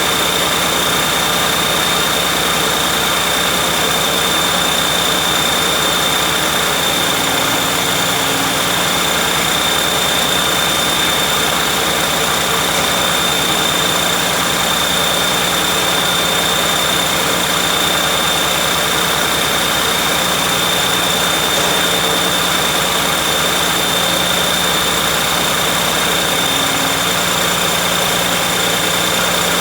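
John Deere 6068TF six-cylinder turbo diesel engine running at a steady idle, with a steady high whine over the engine noise.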